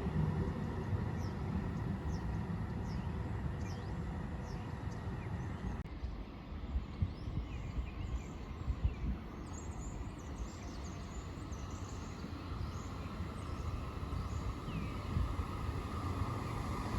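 Railway station ambience: a steady low rumble with small birds chirping now and then, the rumble building near the end as a train approaches.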